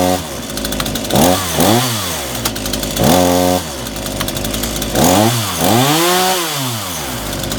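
Titan two-stroke petrol chainsaw running, the throttle blipped over and over: its pitch rises and falls in quick revs, and twice, at the start and about three seconds in, it is held at high revs for about half a second before dropping back to idle.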